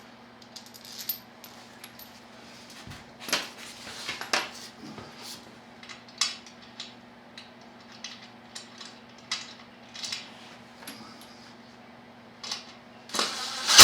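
Light metal clicks and clinks of parts and hand tools being handled while swingarm spools are screwed into a motorcycle swingarm, with a few loud sharp clacks at the very end.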